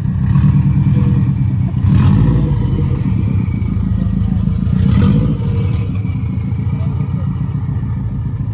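Kawasaki ZX-10R's inline-four engine running while riding, with two louder surges about two and five seconds in.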